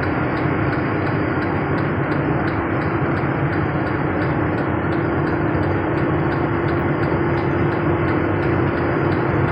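Steady engine and road noise of a truck driving along a highway, an even rumble with a constant low hum.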